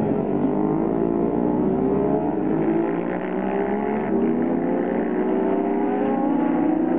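Several historic racing motorcycle engines running at once, their pitches rising and falling as they rev through the gears.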